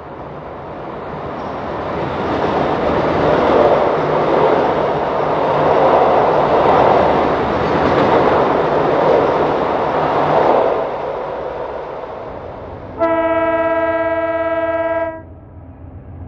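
O gauge model train running on the track, its rumble building up and then fading, followed by a single horn blast of about two seconds near the end.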